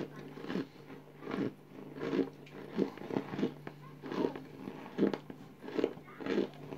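Mouth chewing crunchy chunks of cooled cornstarch: about ten crisp crunches at a fairly even pace, roughly one every two-thirds of a second.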